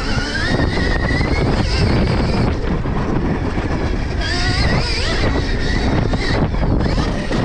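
Stark Varg electric motocross bike's motor whining as it is ridden, its pitch rising with speed near the start and again about four seconds in, over heavy wind rumble on the microphone.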